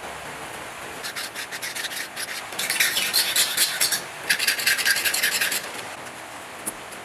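Rapid scraping strokes of an abrasive working a hard surface, in two quick bouts with a brief pause between them, typical of rust or old paint being scrubbed or filed off a part under restoration.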